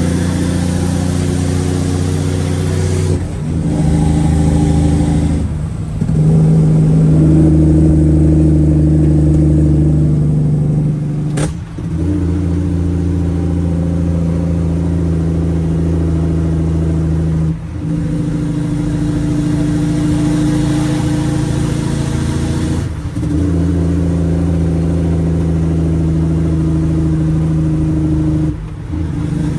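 Straight-piped Cummins ISX diesel engine pulling a truck through an 18-speed gearbox. It runs steadily, broken about every five to six seconds by a brief dip in the sound as a gear is changed, one dip with a sharp click.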